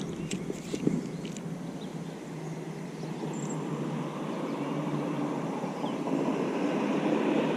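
A steady low motor hum with rushing noise that slowly grows louder toward the end, with a few light clicks in the first second and a half.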